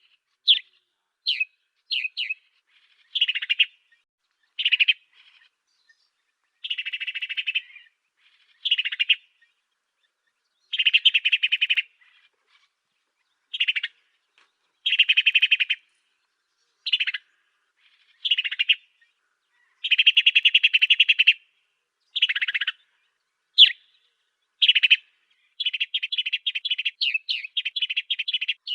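Song of an African sparrow (burung gereja afrika) played as a tutor recording: short sharp chirps alternating with longer buzzy, rattling phrases, in bouts about a second long with short pauses between, running into a quick string of chirps near the end.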